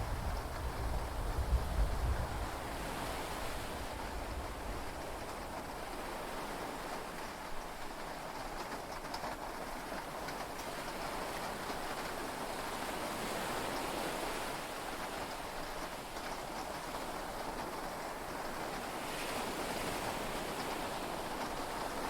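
Heavy rain and sea waves heard from inside a yacht cabin: a steady wash of noise that swells and eases. A low rumble of thunder dies away in the first two seconds.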